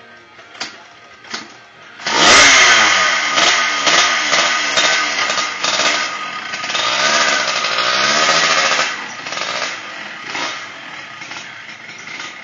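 Motorcycle engine revving hard from about two seconds in, its pitch rising and falling again and again under the throttle, then running more quietly after about nine seconds.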